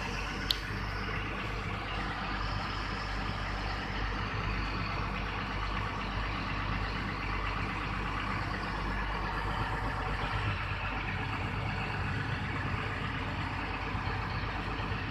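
Truck engine running steadily while driving, with road noise, and one sharp click about half a second in.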